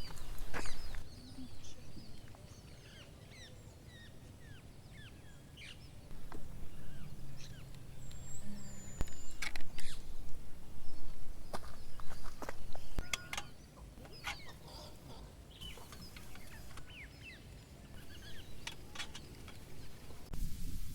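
Birds chirping in short calls, with a run of sharp clicks and knocks through the middle.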